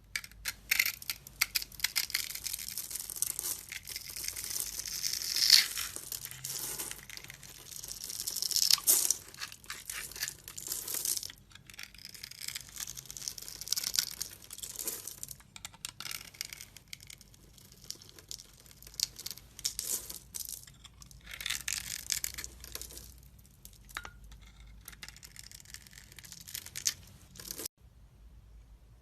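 Knife blade cutting and scraping through dry soap, a dense run of crisp crackling strokes with short pauses. The sound breaks off briefly near the end.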